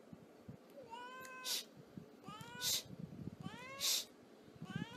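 A cat meowing four times at a steady pace, each short call followed a moment later by a sharp hiss-like burst of noise.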